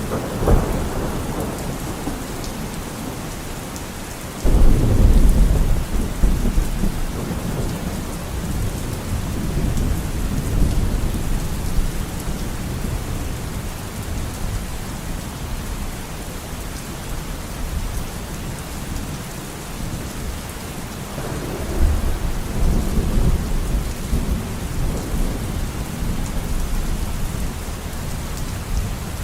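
Steady heavy rain falling, with rolls of thunder: a loud rumble breaks in suddenly about four seconds in and dies away over several seconds, and a second, softer rumble comes near the end.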